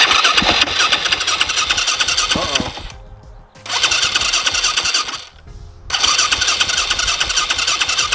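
A 2019 Honda CRF250R's electric starter cranks its single-cylinder four-stroke engine in three attempts: a long one, a short one, then another long one. The engine does not fire; the bike fails to start.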